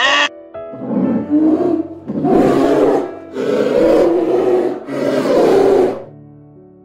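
Polar bear growling in four rough bursts of about a second each, over soft background music that carries on alone near the end.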